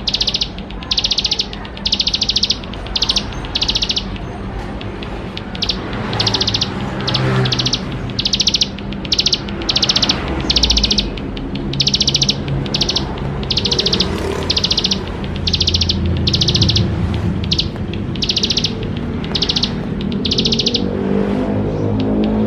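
Plain prinia (ciblek sawah) singing without pause: a long run of short, high, buzzy trilled phrases, about one to two a second, over a low, steady background rumble.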